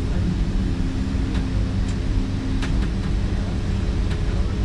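Inside the carriage of a moving metre-gauge electric train: a steady low rumble of wheels on the track with a faint motor hum, and a few short sharp clicks from the running gear.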